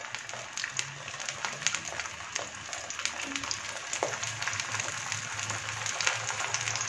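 Chicken salami slices frying in olive oil in a non-stick pan: a steady sizzle full of small crackling pops as more slices are laid in the hot oil.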